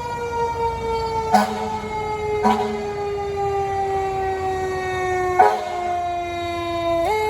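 Fire truck siren sounding a single held wail that sinks slowly in pitch, then steps quickly back up just before the end. Short knocks come through about a second and a half, two and a half, and five and a half seconds in.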